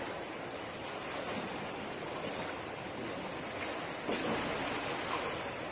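Steady rushing and splashing of water, swelling a little about four seconds in.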